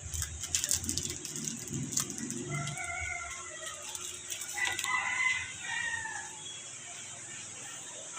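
A bird calling twice, drawn-out pitched calls about three and five seconds in, the second the longer.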